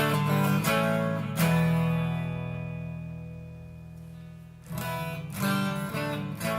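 Electric guitar played through a Vox AD30VT hybrid amp (one preamp valve, 10-inch speaker), master set at half: a few strummed chords, one left ringing and slowly fading for about three seconds, then more strummed chords near the end.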